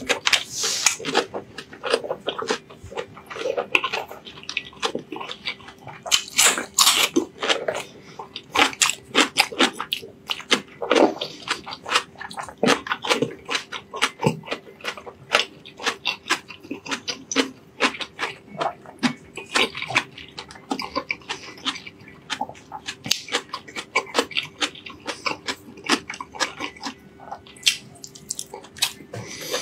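Close-miked eating sounds of a man chewing fatty braised pork belly and rice: continuous wet chewing and lip smacking, many quick irregular clicks. A faint steady hum runs underneath.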